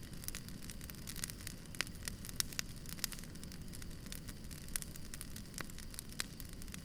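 Wood campfire burning, crackling with frequent irregular sharp pops and snaps over a low steady rumble of the flames.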